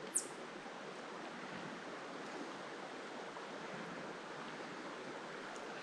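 Steady rush of creek water flowing. Just after the start comes a brief, high sound that falls in pitch.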